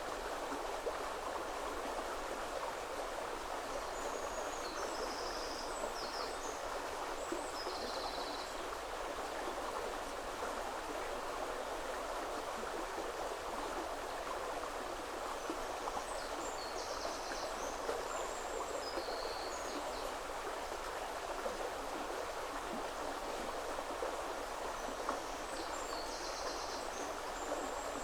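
Woodland river flowing steadily, a continuous rushing of water. Small birds give short high calls over it in three brief clusters: a few seconds in, around the middle, and near the end.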